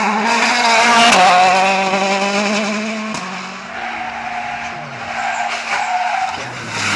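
Rally car engines running hard on a special stage, the pitch wavering as the driver works the throttle. The sound changes abruptly about three seconds in to another, quieter car engine.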